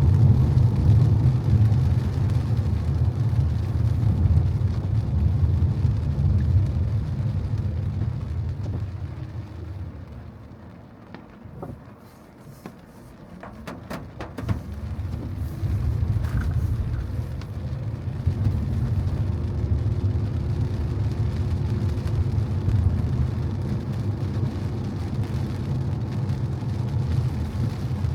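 Car driving on wet road: a steady low rumble with tyre hiss. It dies away as the car slows almost to a stop about ten seconds in, a few short clicks follow, and then it builds back up as the car pulls away and drives on.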